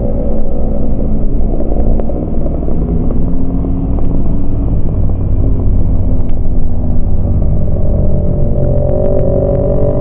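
Yamaha MT-25's 249 cc parallel-twin engine running under way on a ride. The engine note sags through the middle and climbs again near the end as the rider opens the throttle.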